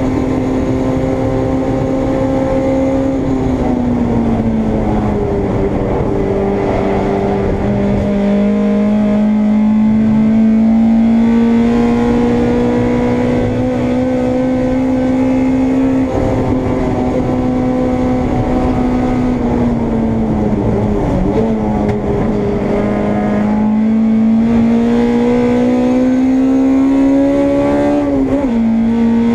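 Honda Integra race car's four-cylinder engine heard from on board at racing speed. The note drops a few seconds in and again about two-thirds through as the car slows, climbs slowly in between as it pulls through a gear, and dips sharply near the end at a gear change.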